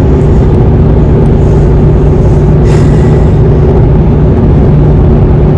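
Car cabin noise while driving: a steady engine hum and road rumble, with a brief hiss a little past the middle.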